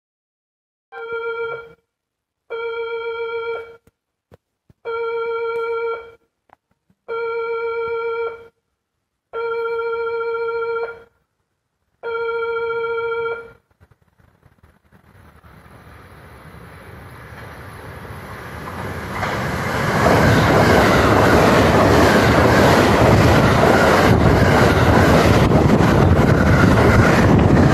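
A steady electronic warning tone sounds six times, each about a second long and evenly spaced. Then a JR West 683-series limited express comes in: its rush of wheels and air rises and turns loud and steady as the train passes close by at speed.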